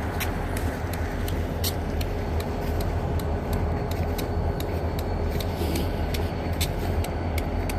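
Motor vehicle engine running steadily with a low hum, with a quick, regular ticking over it.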